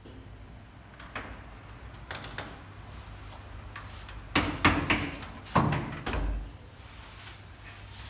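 A panelled wooden door being unlatched and opened with a few light clicks, then swung shut about halfway through with several loud knocks and a heavy thud as it closes.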